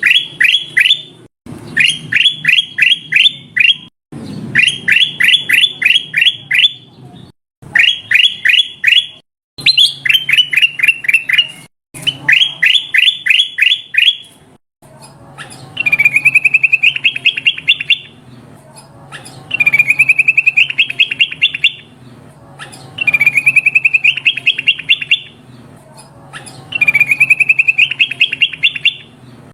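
Kutilang emas (a bulbul) calling in short bursts of about half a dozen quick, sharp descending notes, repeated after brief pauses. About halfway through it switches to longer, faster rolling trills (the 'ngerol' song), four in a row.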